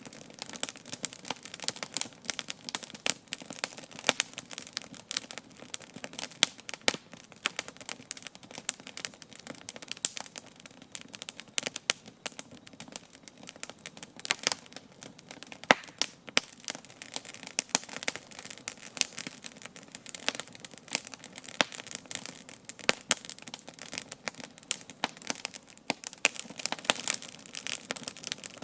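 Wood campfire burning, crackling and popping with many irregular sharp snaps over a soft hiss of flame.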